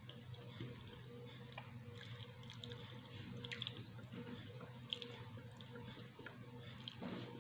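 Quiet chewing and mouth sounds of someone eating, with a few small sharp clicks, over a steady low hum.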